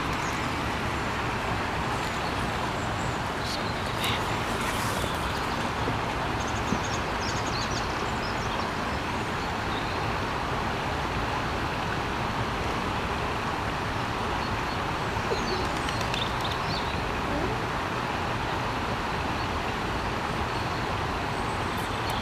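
Steady rush of water pouring over a weir into the pond, an even unbroken noise, with a few faint bird chirps over it.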